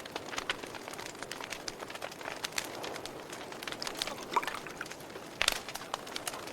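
Wood fire crackling: a low steady hiss with irregular sharp pops and snaps, the loudest about five and a half seconds in.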